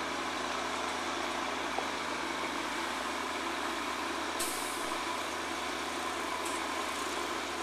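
A heavy truck's engine running steadily, with a short sharp hiss of released air, like an air brake, about four seconds in and a smaller hiss about two seconds later.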